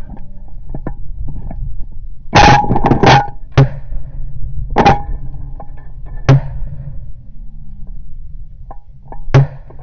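Several sharp, loud bangs: a quick cluster of four about two and a half to three and a half seconds in, then single ones spaced a second or more apart, over a steady low rumble of wind on the microphone.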